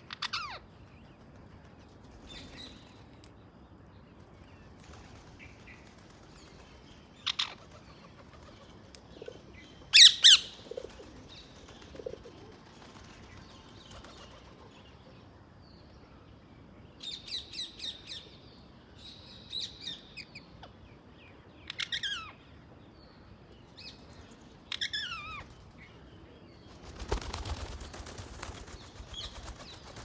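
Birds calling: scattered short chirps and quick downward-sweeping calls, with the loudest about ten seconds in and a quick run of four notes a little later. Near the end there are about two seconds of rustling noise with a low rumble.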